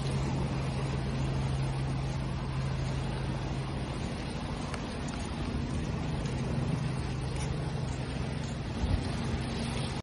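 Ocean waves washing steadily, with a low engine hum running underneath that fades midway as a higher hum comes in. A brief thump about nine seconds in.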